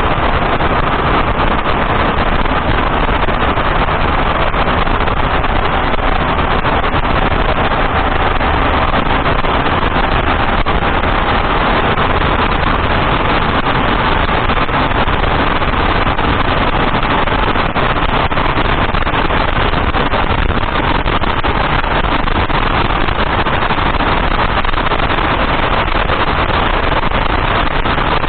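Steady road noise heard inside a moving Datsun on-DO sedan: tyres, wind and engine running evenly, with no distinct knocks or squeaks standing out.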